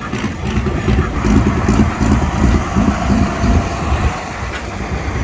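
Competition pulling tractor's engine running with a loud, rough rumble.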